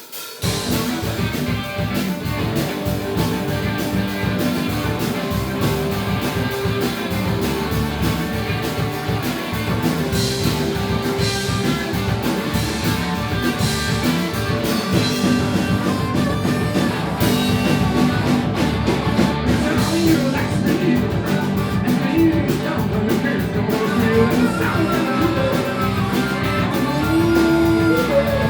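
Live rock band playing a song with electric guitar and drum kit, the full band coming in suddenly right at the start.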